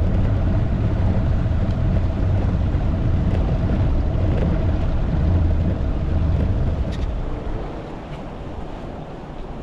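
Two-stroke outboard motor running with a fuel problem, a loud steady rumble with a humming tone, which falls away about seven seconds in, leaving a quieter rumble.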